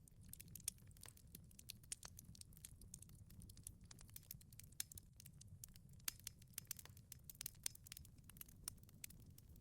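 Wood fire in a wood-fired pizza oven crackling: faint, irregular sharp pops and snaps, a few louder than the rest, over a soft low rumble.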